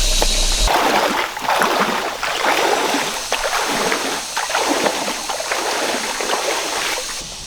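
A steady rushing sound with a low hum cuts off abruptly near the start. Then a person walks, each step a swishing, crunching noise, about one a second.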